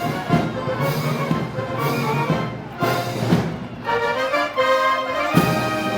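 Brass band playing festival march music, with held brass chords that change every second or so and drum hits throughout.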